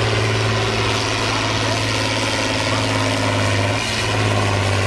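Tractor engine running at a steady speed, one unchanging low drone with no revving.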